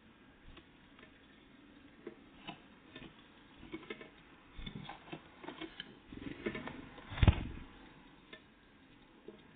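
Great tits and blue tits pecking and tapping at food: irregular light taps and clicks, with one louder knock about seven seconds in.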